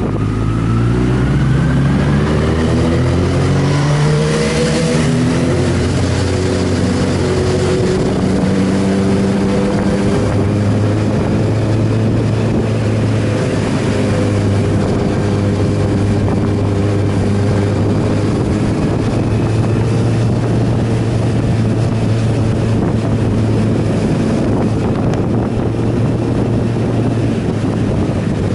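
Sportbike engine accelerating, its pitch climbing through a few quick upshifts in the first five seconds, then running at a steady cruising speed.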